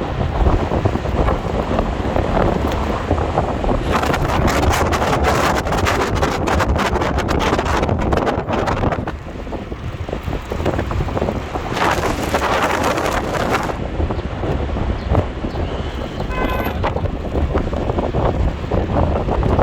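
Wind buffeting the microphone over a steady low rumble, gustier and crackling about four seconds in and again around twelve seconds. A brief pitched toot sounds near the end.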